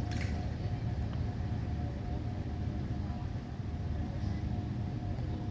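Steady low rumble with a faint steady hum, like a running vehicle engine.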